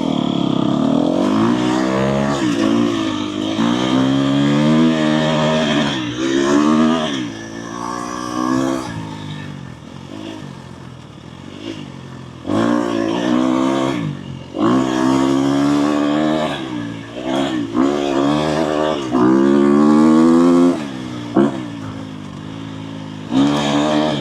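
Dirt bike engine, heard from on the bike, revving up and falling back again and again as the throttle is opened and closed, with several quieter stretches between pulls.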